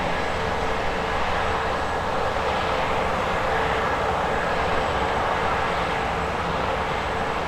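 Large harvest machinery running steadily, a continuous mechanical drone with a steady whine.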